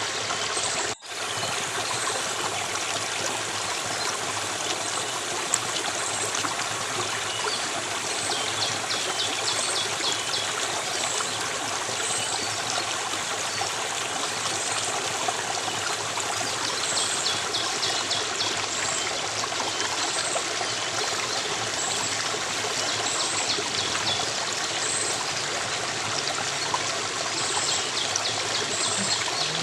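Stream water flowing and trickling steadily, with faint high chirps repeating about once a second over it. The sound drops out for an instant about a second in.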